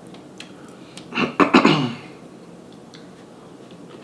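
A person clearing their throat: a short, loud run of throaty bursts about a second in, falling in pitch.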